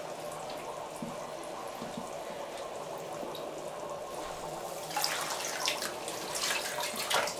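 Steady running or trickling water in a tub, with splashing from about five seconds in as a white-winged scoter goes after minnows in the water.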